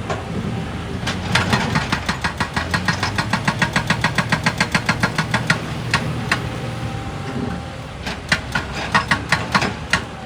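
Engine running with a rapid, even knocking of about ten knocks a second for several seconds, dropping back to a plain run, then knocking again near the end.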